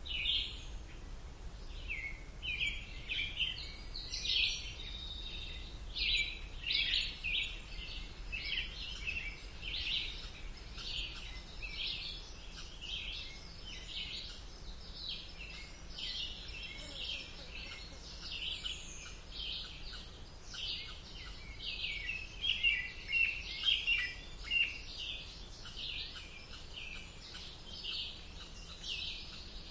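Several songbirds chirping and singing, short notes repeating continuously, over a steady low background hum.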